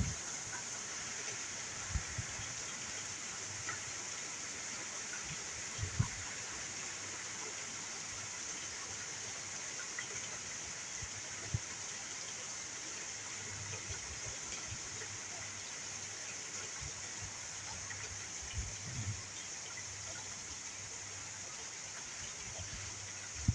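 Heavy rain falling in a steady hiss, with a few soft low thumps scattered through it, the clearest about six seconds in.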